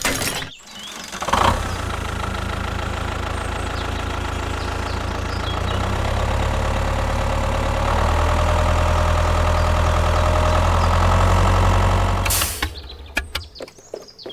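A mini tractor's small engine running steadily after a brief knock. It gets louder in two steps and then stops near the end.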